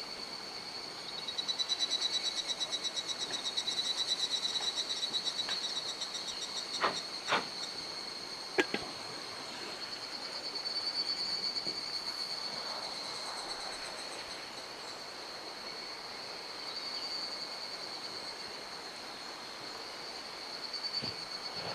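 Insects trilling steadily at a high, thin pitch over the even rush of a mountain stream. A louder, fast-pulsing insect trill runs for about five seconds near the start, and three sharp knocks come about a third of the way in.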